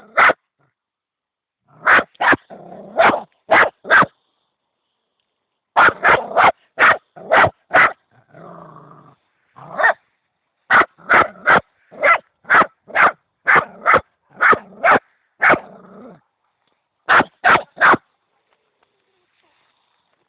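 A dog barking in rapid runs of short, sharp barks, with a low growl between runs, at a hedgehog it has met for the first time. The barking stops about two seconds before the end.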